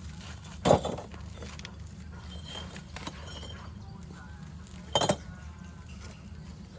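Two sharp clinks of hard objects knocking together, about four seconds apart, over a steady low hum.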